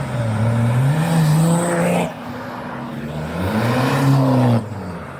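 Car engine revved hard twice. Each time the note climbs and is held before dropping away, and the second rev cuts off abruptly near the end.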